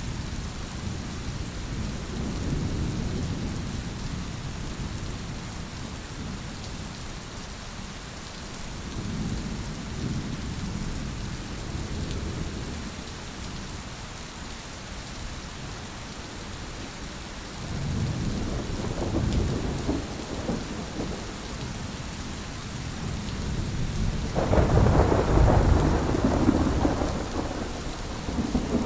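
Steady rain with thunder rolling several times, low rumbles swelling and fading; the loudest, sharpest peal breaks about three-quarters of the way through and rumbles on for a few seconds.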